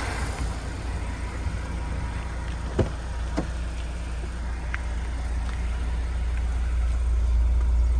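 Car engine idling smoothly just after a cold start, a steady low rumble, with two light clicks about three seconds in.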